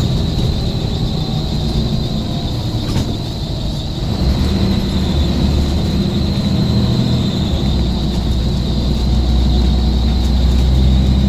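Scania coach engine running steadily, growing louder about four seconds in, with a thin steady high whine throughout.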